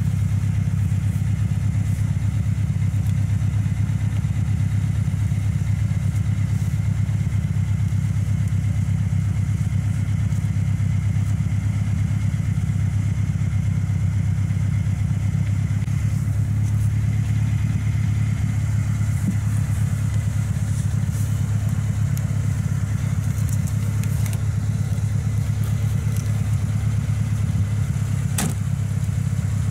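Lada 4x4 (Niva) engine idling steadily while the car sits stuck in mud, with a sharp knock near the end.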